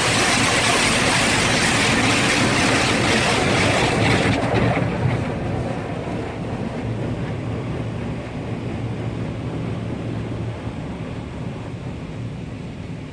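Automatic car wash machinery running: a loud rushing hiss that stops about four and a half seconds in, leaving a quieter steady rumble with a low hum.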